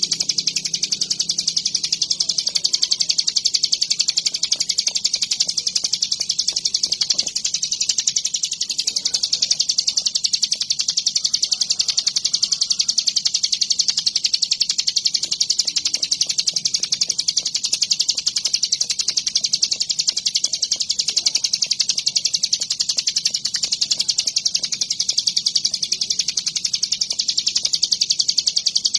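Ciblek gunung, a mountain prinia, singing nonstop in a rapid, high-pitched, unbroken chatter.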